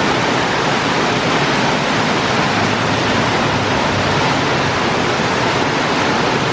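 Waterfall rushing: a loud, steady hiss of falling water with no let-up.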